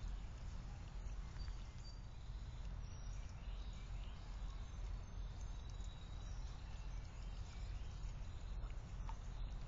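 Steady outdoor background with a constant low rumble and faint, scattered chirps of small birds.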